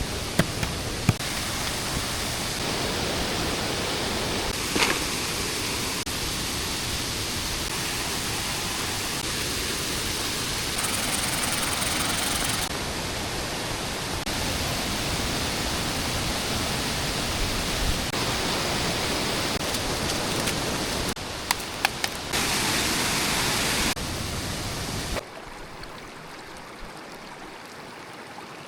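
Steady rushing water noise with a few sharp clicks. It changes abruptly several times and drops much quieter about 25 seconds in.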